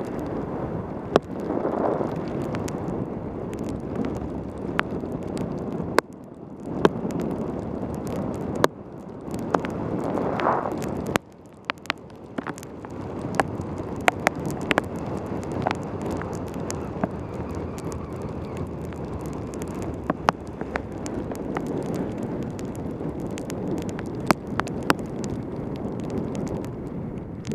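Wind and rain noise on a helmet camera's microphone during a fast bicycle descent on a wet road, with many sharp clicks and knocks throughout. The noise drops off briefly a few times.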